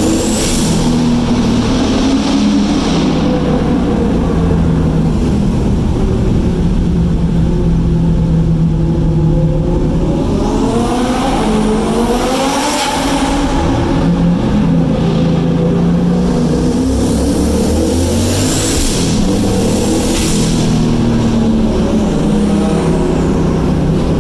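Turbocharged car engine running hard under acceleration, its pitch climbing and dropping with the revs, with several loud rushes of hiss, the biggest about halfway through.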